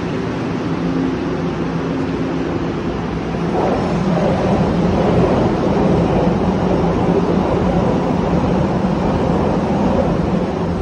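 Steady mechanical hum from a Taiwan Railway push-pull Tze-Chiang express (E1000 series) alongside the platform as it comes to a stop. The hum grows louder and fuller about three and a half seconds in.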